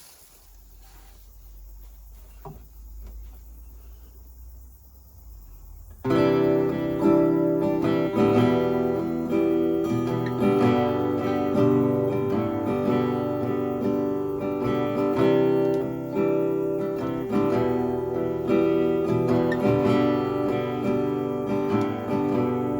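A few faint knocks over a low hum, then about six seconds in an acoustic guitar starts playing a song intro: picked and strummed chords that ring on, with no voice.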